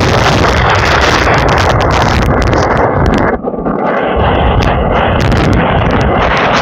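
Typhoon wind gusting hard and buffeting the microphone in a loud, continuous roar, with a brief lull about halfway through.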